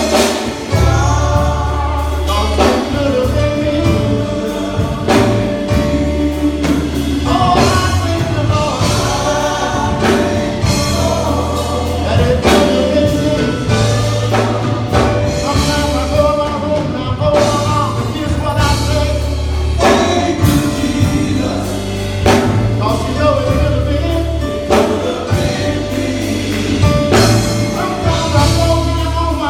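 Gospel choir singing with a band over a steady beat.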